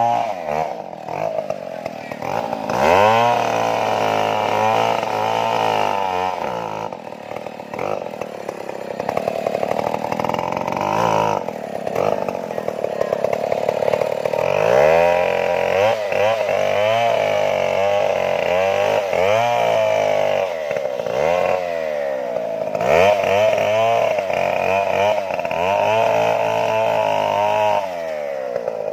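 Stihl chainsaw cutting into a large tree trunk, its engine speed rising and falling over and over as the bar bites and eases off.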